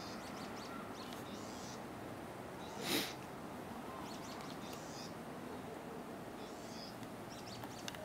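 Small birds chirping in short high clusters every second or so over a steady background noise, with one brief, louder rush of noise about three seconds in.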